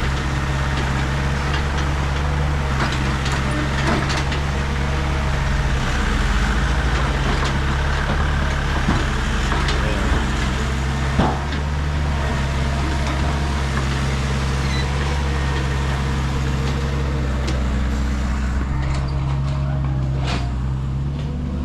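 Heavy diesel engines of a backhoe and a stuck sand truck running steadily under load during the recovery, with occasional knocks and clanks and one sharp knock about eleven seconds in.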